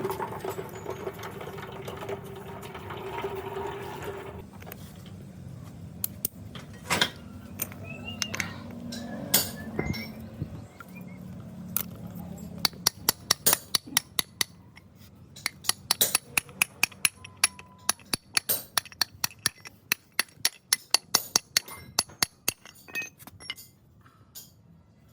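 Light metallic clinking and tapping in a workshop, growing into many quick clinks about halfway through, after a steady hum at the start.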